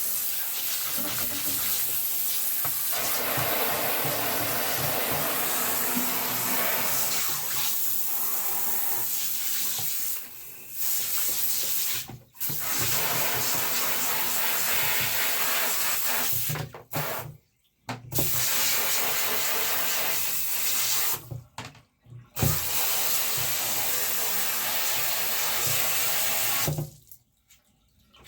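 Bathtub tap running, its water splashing over bird-cage parts being rinsed under it. The flow breaks off briefly several times and stops near the end.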